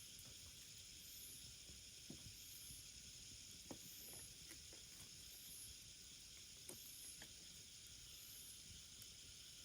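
Faint wood fire crackling: a steady soft hiss with a few scattered small pops.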